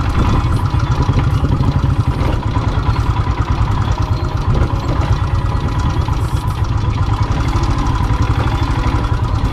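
Royal Enfield Himalayan's single-cylinder engine running steadily at low revs, with a fast, even pulse that does not change.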